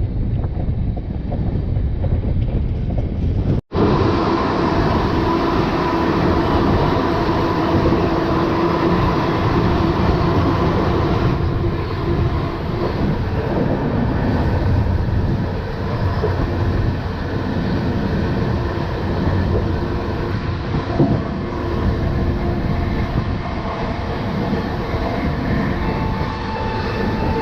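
Passenger train running at speed: a steady rumble of wheels on rail with rushing air. It breaks off for an instant about four seconds in, and faint steady tones sit over the noise.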